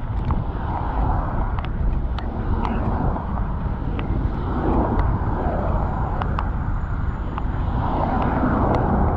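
City street traffic under a steady low rumble of wind on the microphone from riding a bicycle, with scattered small clicks and rattles.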